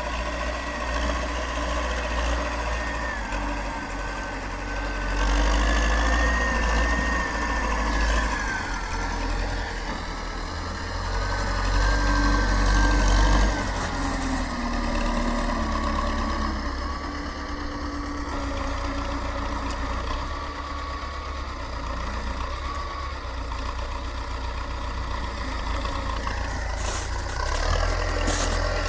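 T-40 wheeled tractor's air-cooled diesel engine running, swelling and easing several times as the load changes while it skids logs. A thin whine wanders in pitch above the engine, and a few sharp knocks come near the end.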